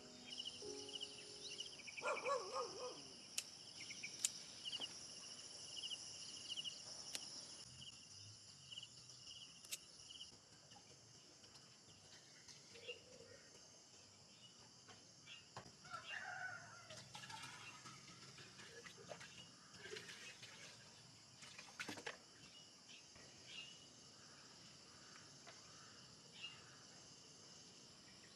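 Quiet rural ambience: a few bird calls, the loudest about two seconds in and more around the middle, over a steady chirring of insects.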